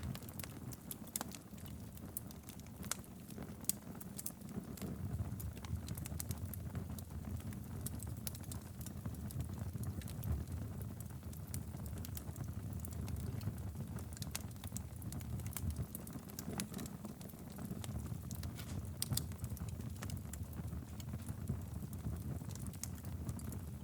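Wood fire burning steadily in a fireplace: a low rumble of flames with irregular sharp crackles and pops scattered throughout.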